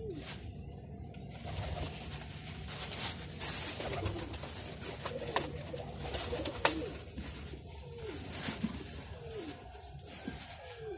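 Domestic pigeons cooing over and over, each coo a short falling note, over a rustling hiss with a few sharp clicks.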